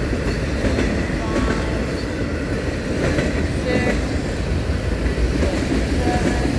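Loaded autorack freight cars rolling past: a steady rumble of steel wheels on the rails, with clickety-clack over the rail joints.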